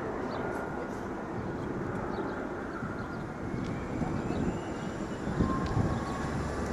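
Steady outdoor city noise, a general traffic rumble, with a couple of brief low thumps about five and a half seconds in.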